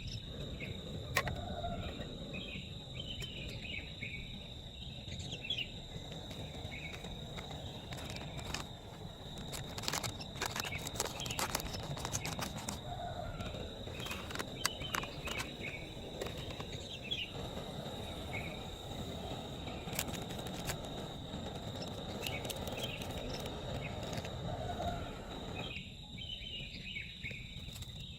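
Forest ambience: a steady high insect drone, birds chirping throughout, a low rushing noise and scattered sharp ticks that come thickest near the middle. The low rushing drops away about two seconds before the end.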